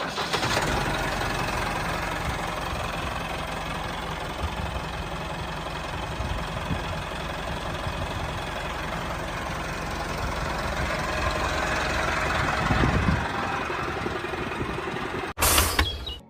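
A mini tractor's engine running steadily, cutting off abruptly near the end.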